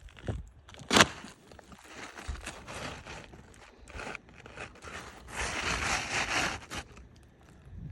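Asphalt roof shingles being worked by hand, with irregular scraping and crackling as they are lifted and handled, and one sharp knock about a second in. The shingles are brittle and break away as they are lifted.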